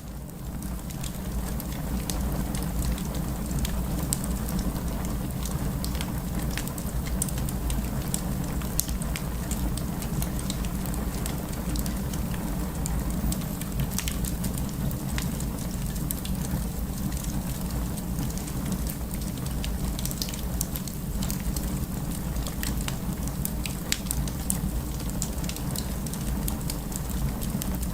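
Wood fire crackling: a steady low rumble of burning with many sharp, irregular pops and snaps, fading in over the first couple of seconds.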